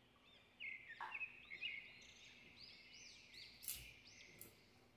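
Near silence with faint bird chirps: a run of short, arching high calls and a thin held note, and two soft clicks near the end.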